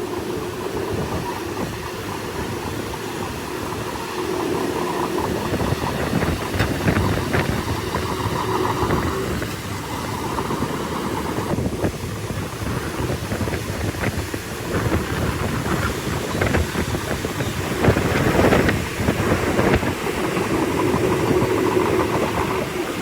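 Bulldozer's diesel engine working hard and steadily, with bouts of clanking and clatter from its steel tracks, heaviest in the last third.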